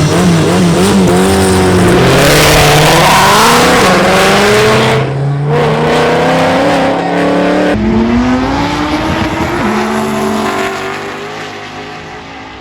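Race cars accelerating hard at full throttle, engine pitch climbing and dropping back at each gear change, then fading away near the end.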